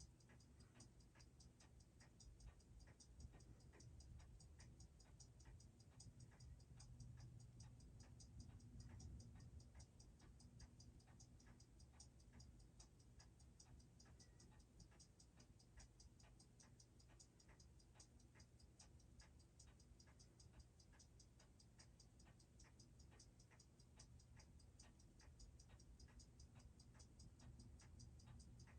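Faint, steady ticking of a Seiko 6R15 automatic watch movement, an even run of about six ticks a second, over a low hum.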